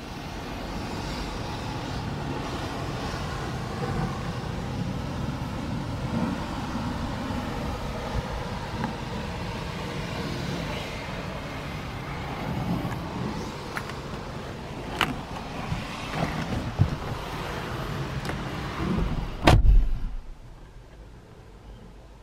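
A motor vehicle running steadily with a low hum. A sharp click comes late on, then a heavy thump like a car door shutting near the end, after which the running noise drops away.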